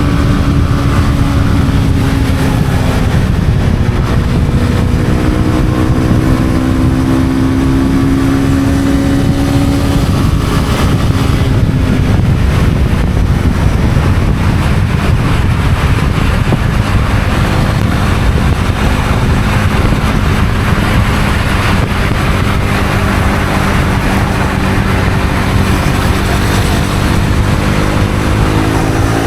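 Honda CB250R's single-cylinder engine running under way, its pitch dropping and climbing a few times, sitting lower through the middle and climbing again near the end, over heavy wind and road noise.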